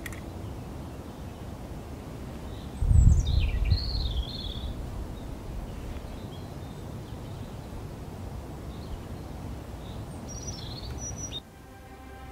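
Wind rumbling on the microphone, with one strong gust about three seconds in, while a small bird sings two short warbling phrases. Music fades in near the end.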